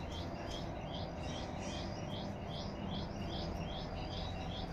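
A bird calling in a rapid, even series of short high chirps, about three a second, over a low steady hum.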